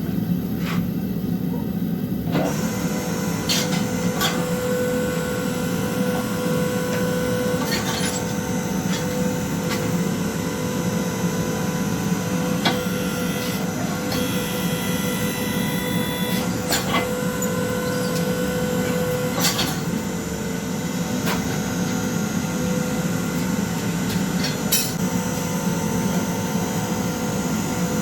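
Home-built forging press running steadily, its motor and pump giving a constant hum with a steady tone, and a few sharp clicks or knocks now and then.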